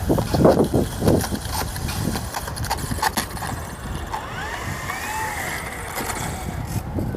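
Radio-controlled Pitts model aircraft's motor, faint, rising and then falling in pitch about halfway through, over a steady low rumble of wind on the microphone.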